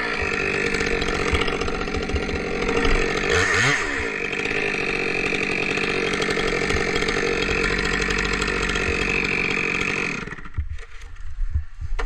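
Two-stroke chainsaw running at high revs, its pitch briefly dropping and climbing again near four seconds in, then falling away sharply about ten seconds in.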